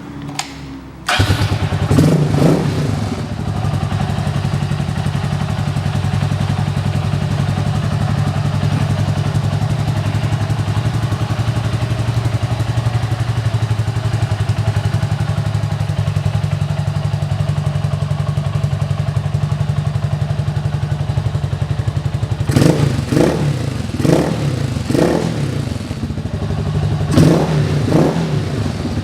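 Honda FTR223's air-cooled 223 cc single-cylinder engine, breathing through a custom aftermarket muffler. It starts up about a second in with a couple of quick blips, idles steadily, then is revved in several short throttle blips near the end.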